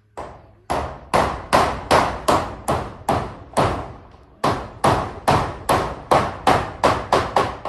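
Hammer nailing down zinc roofing sheets, a steady run of sharp blows about two or three a second, each ringing briefly, with a short pause about halfway through.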